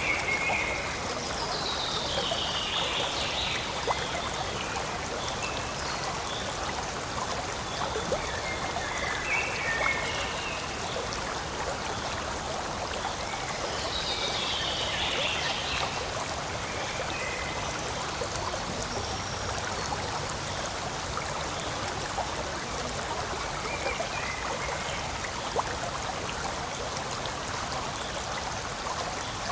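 Forest stream running steadily, an even rush and trickle of water.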